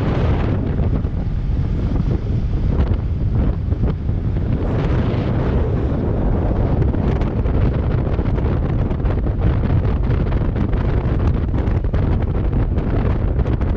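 Heavy wind buffeting on the microphone of a moving motorcycle, steady throughout, with a Kawasaki Versys 650's parallel-twin engine running underneath.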